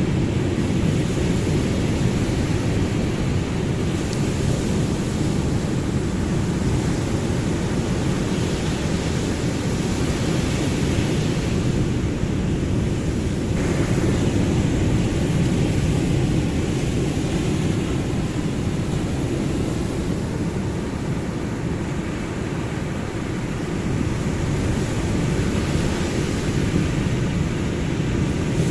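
Ocean waves: a steady, deep rush of surf that slowly swells and eases, with a brief lull about two-thirds of the way through.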